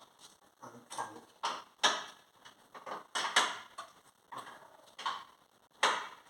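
Hand tools and car parts clicking and knocking as they are handled and fitted: an irregular run of sharp knocks, about two or three a second, the loudest a little after three seconds and again near the end.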